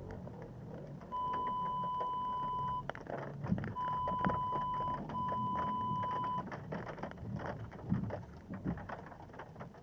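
Three steady high-pitched electronic beeps: the first about a second and a half long, the next two just over a second each with a short gap between. Faint scattered clicks and knocks run underneath.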